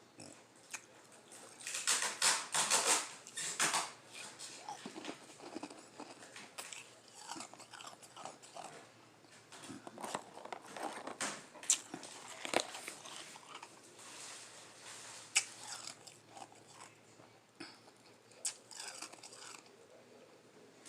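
Close-up biting and chewing of lime-flavored ice, with a run of loud crunching bites about two seconds in, then softer chewing with occasional sharp crunches.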